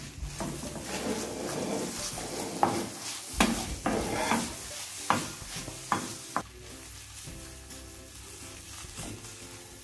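Spring onions sizzling in hot olive oil in a stainless steel frying pan as they are stirred and tossed with a wooden spoon, with a few sharp clacks of the spoon against the pan in the first six or so seconds. After that the frying goes on quieter and steady.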